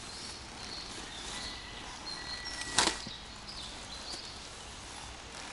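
A single sharp snap a little under three seconds in, over steady outdoor background noise with a few faint high chirps.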